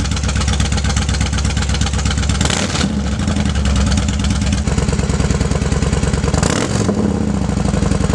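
Yamaha Warrior 1700's V-twin running through a Cobra swept exhaust, recorded right at the pipes. It idles steadily with a quick throttle blip about two and a half seconds in and another about six and a half seconds in. Just before five seconds the tone changes, where a recording with the baffles out is spliced to one with the baffles in.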